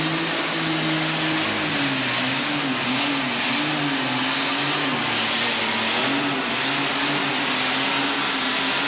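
Turbocharged alcohol-burning super stock pulling tractor running flat out under load during a pull. Its engine note wavers up and down, with a high steady turbo whistle above it.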